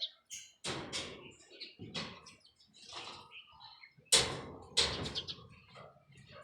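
A series of irregular knocks and scrapes, about six in all, with the loudest about four seconds in.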